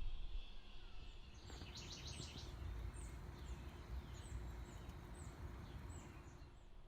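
Wild birds calling. A quick high trill comes about a second and a half in, then a run of short, high chirps, about two a second, over a low steady background rumble.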